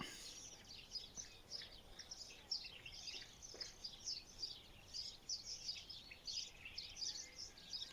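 A chorus of small songbirds chirping: many quick, high chirps overlapping, fairly faint.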